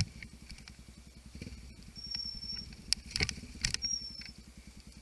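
Enduro motorcycle engine running at a low, even idle, with scattered sharp clicks and two brief high-pitched tones near the middle.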